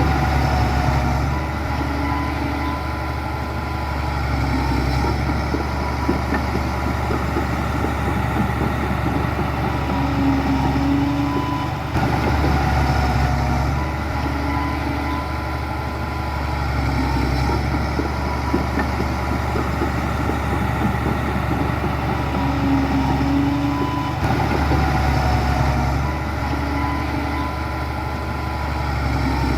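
Heavy diesel engine of construction machinery running steadily at low revs, a continuous rumble with a steady hum. The same pattern repeats about every twelve seconds.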